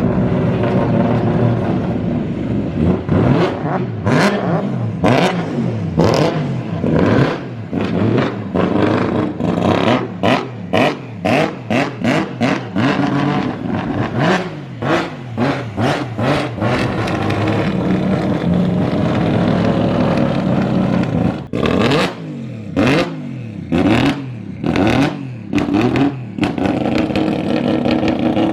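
An engine being revved in quick, repeated blips, with a steadier held rev around the middle, really noisy and echoing off the workshop walls.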